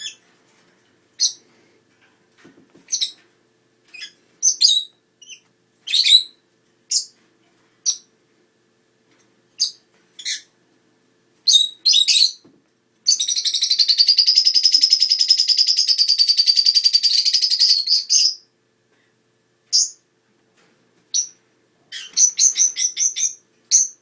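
Lovebirds calling: single high-pitched chirps about once a second, then a fast chattering run lasting about five seconds from just past halfway, and a quick string of chirps near the end.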